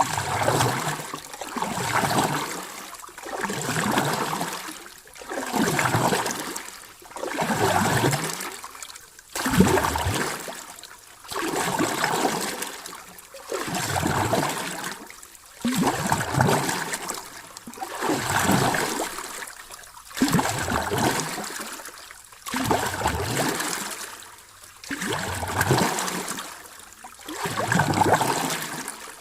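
Ocean waves washing in and drawing back, a rushing hiss that swells and fades in a regular rhythm about every two seconds.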